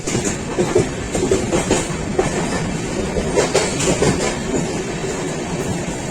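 Passenger train running on the track: a steady rumble of the carriage with irregular clattering knocks and rattles from the wheels and rails.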